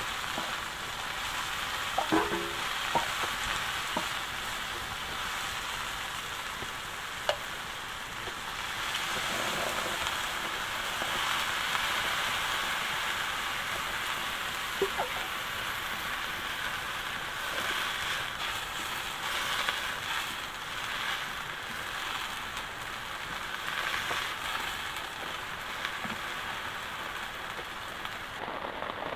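Food sizzling as it is stir-fried in a pan, with a few sharp clicks of the spatula against the pan. Heavy rain falls steadily beneath it.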